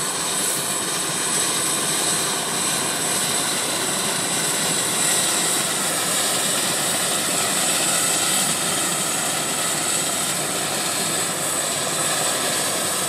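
Medical helicopter's turbine engines and rotor running steadily on the ground, with a steady high-pitched turbine whine over the rotor noise.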